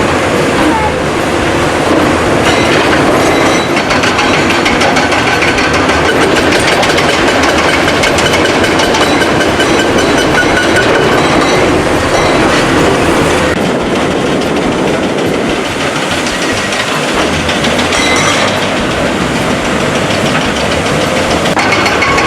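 Heavy machinery running loudly and steadily, with a fast rattling texture and faint high whines that come and go.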